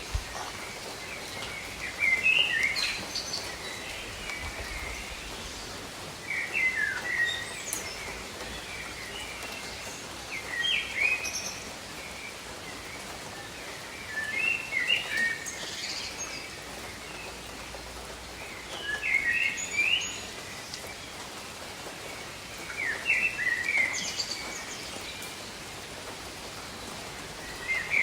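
Steady rain falling over jungle, with a bird singing short chirping phrases about every four seconds above the rain; the bird phrases are the loudest part.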